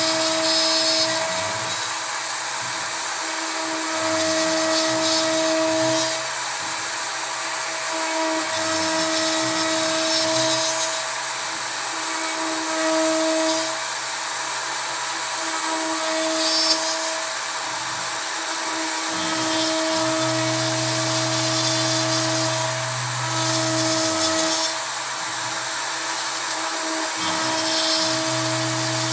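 Kress router spindle on a CNC router cutting pine with a 3 mm end mill: a steady high-pitched whine, with a lower hum that comes and goes every few seconds as the machine moves.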